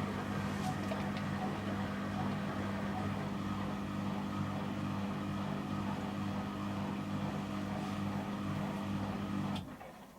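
Samsung Series 5+ washing machine running in the first seconds of its wash cycle: a steady hum with a low tone that cuts off suddenly near the end.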